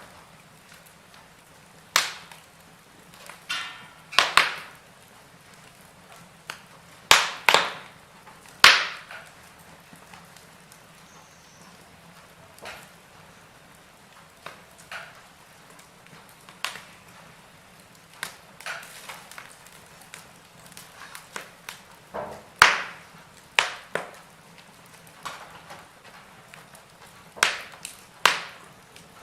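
Wood logs burning in a fireplace, crackling with irregular sharp pops and snaps over a faint steady background. Some pops come in quick pairs, and some are several seconds apart.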